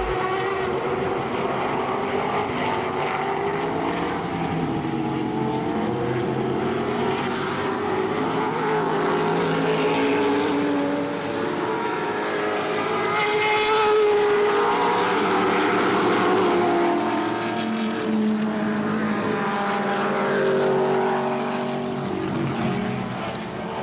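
A field of sports sedan race cars passing on the opening lap, many racing engines running at once, their notes rising and falling as they go by and loudest about halfway through.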